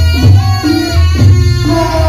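Reog gamelan music: heavy drum strokes about twice a second under ringing gong-chime tones, with a high reed pipe (slompret) coming in near the end.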